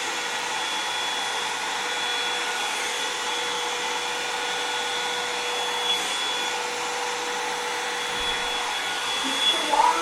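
Revlon One-Step hair dryer and volumizer brush running steadily: a constant rush of air with a steady high whine.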